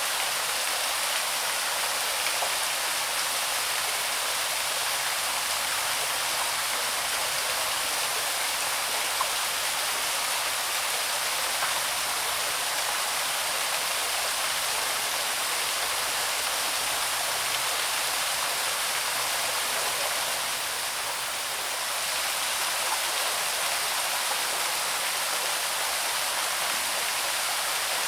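Small waterfall on a woodland stream: water pouring and splashing in a steady rush, easing off slightly about three quarters of the way through.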